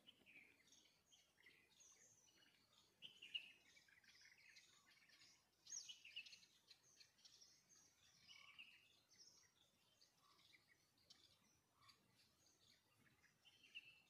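Faint, scattered chirps and calls of small birds, a few a second, over a quiet outdoor background, a little louder about three and six seconds in.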